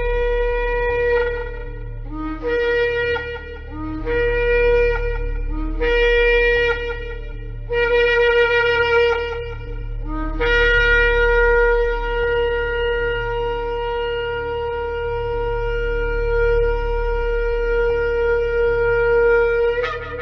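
Shofar (ram's horn) being blown. A note ends about a second in, then come four short blasts, each starting low and stepping up, then one long held blast of nearly ten seconds that ends with a sharp upward flick. A steady low hum runs underneath.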